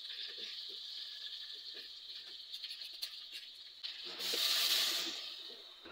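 Hot oil sizzling under fried tuna in an aluminium pot on a gas burner; about four seconds in, water poured into the hot pot sets off a loud hissing sizzle that swells for about a second and then dies down.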